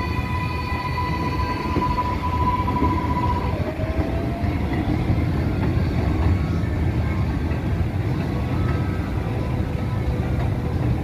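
R188 subway train running on the 7 line: a steady rumble of wheels on rail with the electric motors' whine on top, one tone held for the first few seconds and a new tone rising in pitch about four seconds in, as the train gathers speed.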